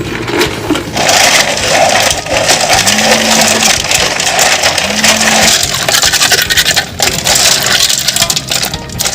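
River clam shells scraping and rattling against one another as they are handled or rubbed together, a dense, gritty scraping that is strongest from about a second in to about six seconds.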